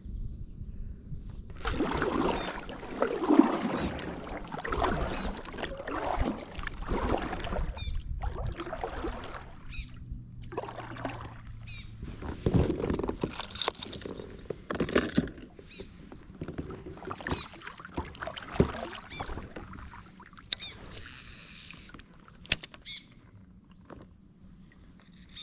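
Kayak paddle strokes in the water, a run of irregular swishes and splashes about a second apart that die down after about fifteen seconds into scattered faint clicks and knocks.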